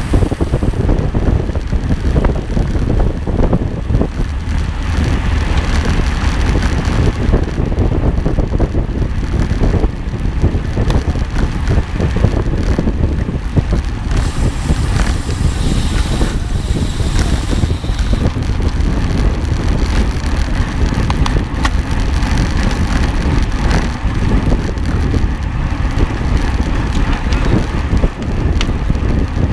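Steady loud rumble and wind noise from a camera riding on a moving vehicle, with constant small knocks and rattles as it travels over rough ground.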